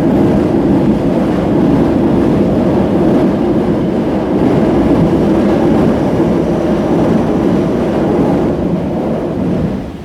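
Kita-Osaka Kyuko 9000 series electric train pulling into a station platform: a steady rumble of wheels on the rails that drops off sharply near the end as the train slows.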